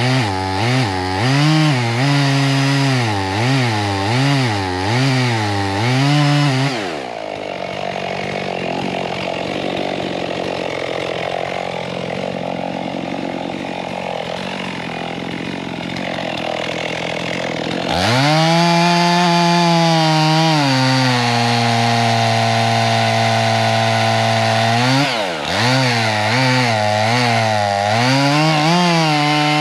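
Chainsaw cutting into a dead oak, its engine speed wavering under load. About seven seconds in it drops to a low idle, then about eleven seconds later revs sharply back up to a steady full-throttle note, dipping briefly once near the end.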